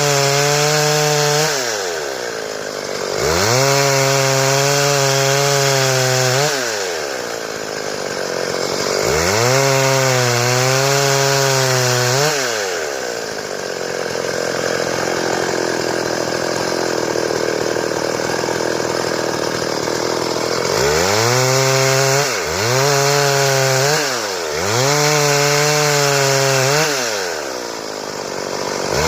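Stihl two-stroke chainsaw revved up to full throttle and let fall back to idle again and again, each burst held for two to three seconds. In the middle, for about eight seconds, the clear engine pitch gives way to a rougher, blurred run as the chain works through wood.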